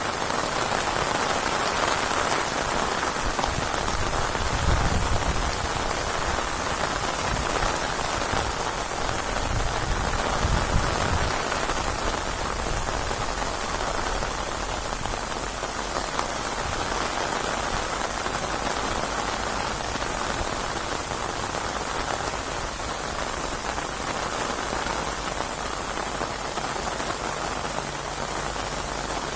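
Steady heavy rain falling on surfaces, a continuous even hiss of drops. Two brief deep rumbles swell up, about five seconds in and again about ten seconds in.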